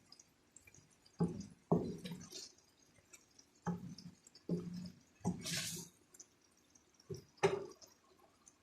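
Chicken cooking in coconut milk being stirred in the pan: a series of short wet, squelching and dripping strokes, about seven of them spread over several seconds.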